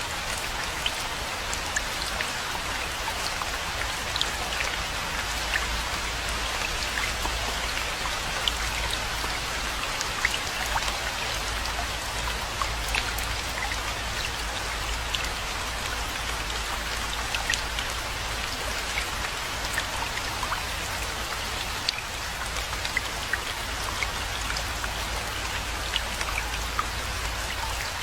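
Steady rainfall, a constant hiss with many separate drop hits ticking through it, over a steady low rumble.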